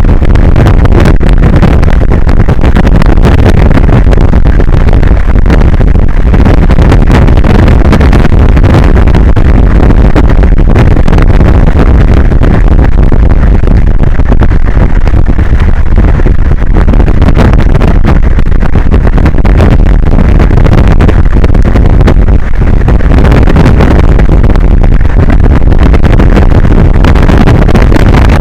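Strong wind buffeting an exposed microphone, a loud, constant low rumble that overloads the recording, with no break.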